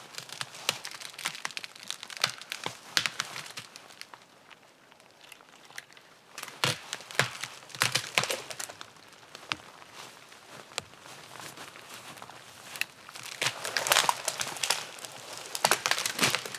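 Dry dead wood and forest undergrowth crackling and snapping in an irregular run of sharp cracks as standing dead trees are brought down and handled for firewood. The cracks come thickest near the end.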